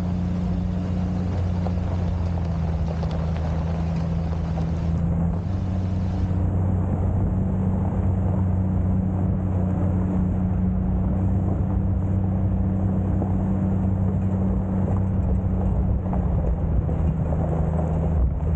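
Jeep Cherokee XJ's engine running steadily as it drives, a constant low drone with road noise; the pitch shifts slightly about five seconds in.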